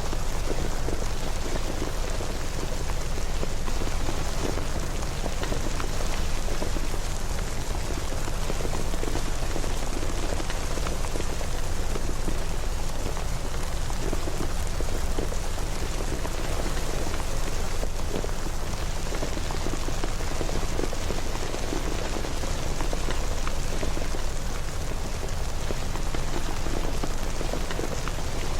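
Steady rain falling, an even hiss with dense drop patter.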